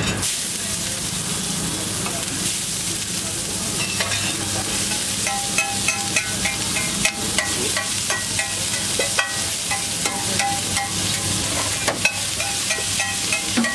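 Chopped onion sizzling on a large flat iron griddle, with a steady frying hiss. From about four seconds in, a metal spatula scrapes and taps against the griddle as it stirs and chops the onion, giving frequent clinks with a brief metallic ring.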